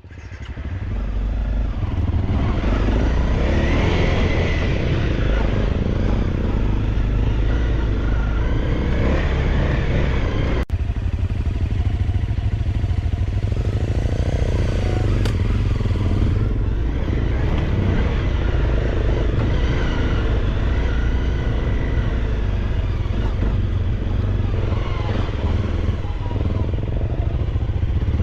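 Dirt-bike engine running as the motorcycle rides a dirt track, fading in at the start and holding steady, with a brief break about ten and a half seconds in.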